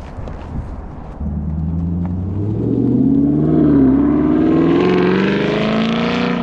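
2021 Camaro SS's 6.2-litre V8 through an MBRP cat-back exhaust, accelerating from about a second in, its note rising steadily in pitch and growing louder.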